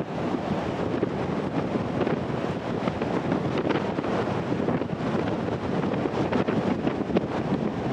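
Strong wind buffeting the microphone aboard a ferry in rough seas: a steady rushing noise that swells and dips in gusts.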